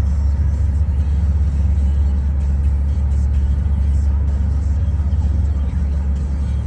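A boat's engine running steadily underway, a loud, even low drone.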